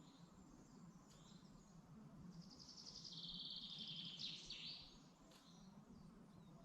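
Faint forest birdsong: a songbird sings one fast, high trill a little over two seconds in, dropping to a lower pitch partway through and ending in a few quick sweeping notes, with other birds chirping faintly.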